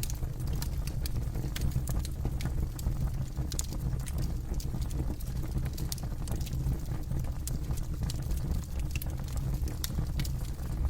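Campfire crackling: burning wood giving frequent, irregular sharp pops and snaps over a steady low rumble.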